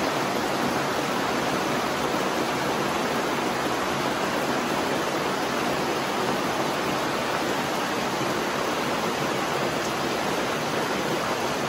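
Steady, dense rain falling, heard as an even hiss with no separate drops standing out.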